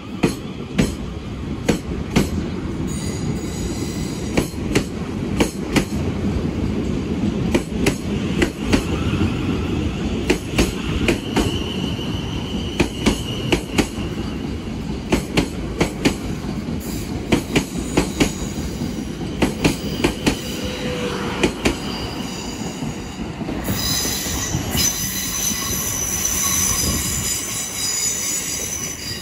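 South Western Railway electric multiple unit rolling past with a steady rumble, its wheels clicking repeatedly over rail joints and points. A high-pitched wheel squeal sets in strongly near the end.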